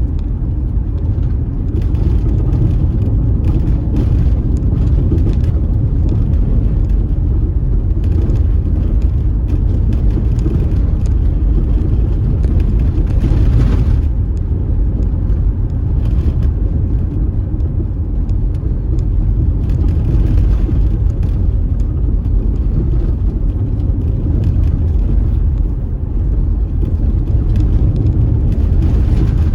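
Car driving along an unpaved, dusty road: a steady low rumble of engine and tyres, with scattered faint ticks.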